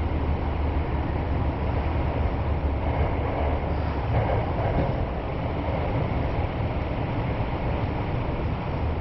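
Kyoto Municipal Subway Karasuma Line train running through a tunnel, heard from inside the car: a steady rumble of wheels on rails with a low drone, easing a little about halfway through.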